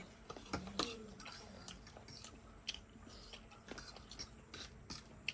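A person chewing food close to the microphone, with irregular wet clicks and smacks of the mouth.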